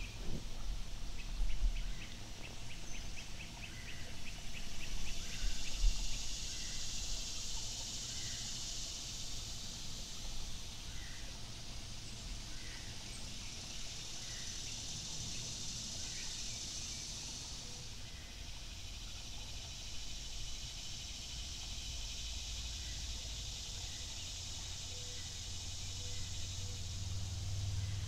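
Birds calling over the steady hiss of a mountain stream: a short, rapid trill near the start, then a soft chirp repeated every second or two. A couple of low rumbling thumps come early on, and a low hum rises near the end.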